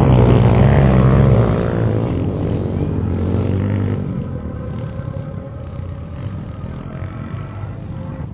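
Motocross dirt bike engine revving loudly up close, then fading over the next few seconds as it moves away, leaving a fainter engine sound.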